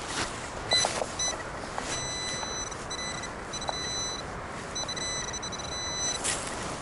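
Metal detector's electronic tone signalling a target: a few short beeps, then longer steady beeps of one pitch, cut off near the end.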